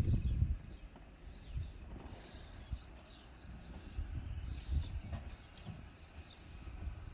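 Small birds chirping, short falling chirps repeated throughout, over a faint uneven low rumble; a louder low rumble dies away in the first half second.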